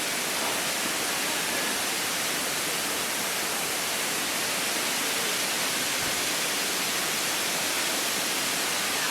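Steady rush of a waterfall. The falls are running at low flow, not the usual curtain of water across the whole rock face.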